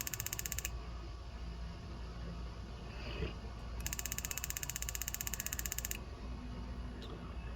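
Electric spark igniter clicking rapidly and evenly, trying to light a propane-oxygen jeweler's torch. The clicking stops under a second in, then comes again in a burst of about two seconds.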